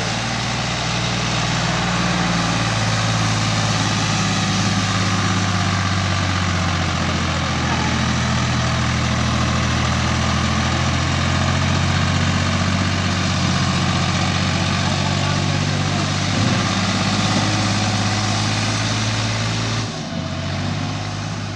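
Al-Ghazi tractor's diesel engine running at a steady speed, its pitch holding even; near the end the sound drops a little and shifts.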